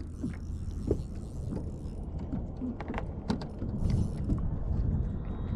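Scattered light clicks, taps and creaks of gear being handled on a kayak, over a steady low wind rumble.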